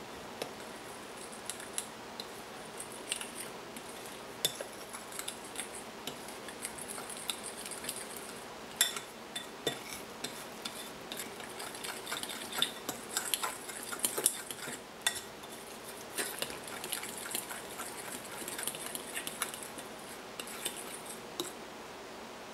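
Metal utensil clinking and scraping against a dish in irregular strokes, mixing the cake batter, over a steady hiss.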